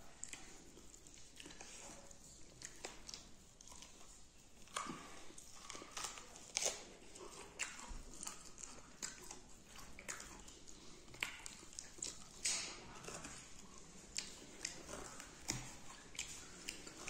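A person chewing and biting on beef close to the microphone: irregular wet clicks and smacks of mouth noise, a few louder than the rest.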